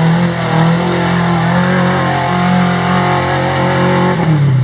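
Rock crawler's engine held at high revs while climbing a rock obstacle, then the revs drop about four seconds in.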